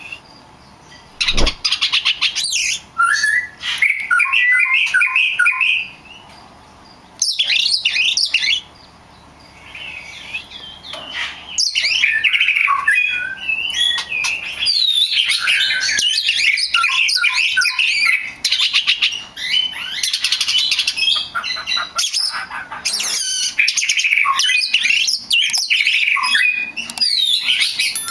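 Oriental magpie-robin (kacer) singing a loud, varied song of whistled and chattering phrases, broken by short pauses over the first ten seconds and then nearly unbroken. A sharp knock sounds about a second and a half in.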